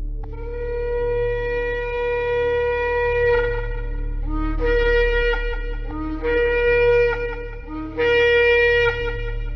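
Shofar blasts: one long held note of about three seconds, then three shorter blasts, each starting on a lower note and jumping up to the main pitch. A steady low hum sits beneath.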